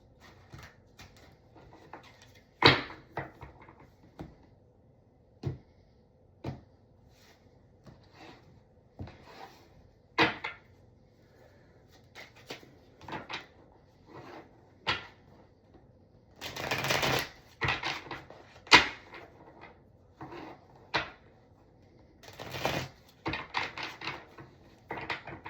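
A deck of tarot cards being shuffled and handled: scattered sharp taps and snaps of cards, with a longer rustling stretch of shuffling about two-thirds of the way through.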